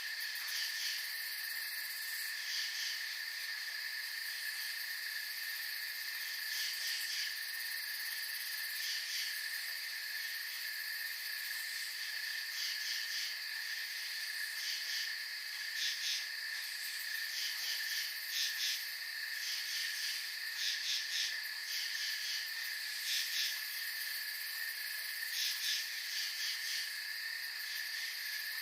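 Night insects calling together, crickets among them: a steady high trill underneath, with groups of rapid, pulsed chirps repeating every couple of seconds.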